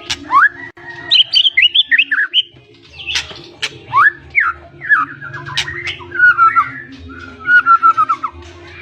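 White-rumped shama (murai batu) of the pied 'blorok' type singing a fast, varied song full of mimicked fill-in phrases. The song has rising whistled sweeps, sharp clicks and trilled runs, with a descending stepped run near the end.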